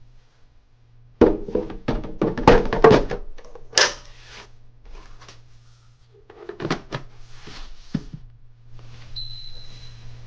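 Humidifier's plastic tank and housing being handled and set in place: a dense run of thunks and clattering knocks about a second in, then a few more knocks later, over a low steady hum.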